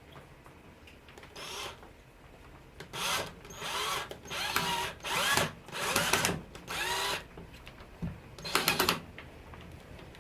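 A cordless drill-driver is run in about eight short bursts, its motor whine rising and falling with each squeeze, as it tries to drive a screw into the end of a piece of wood. The screw will not go in.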